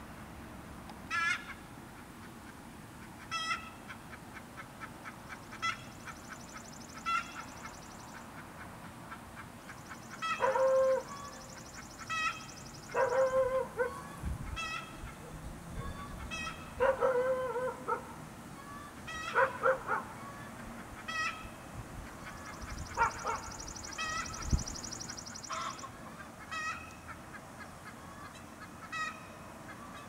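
Birds calling outside: short pitched calls repeating every second or two, with a few louder, lower calls in the middle stretch.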